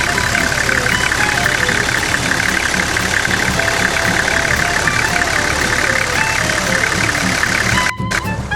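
A vehicle engine running steadily, with a strong, even mechanical noise throughout. It cuts off abruptly about eight seconds in.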